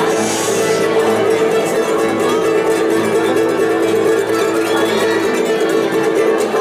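Instrumental music on plucked string instruments, guitar-like, with steady held notes through it: an instrumental passage between sung verses of a song.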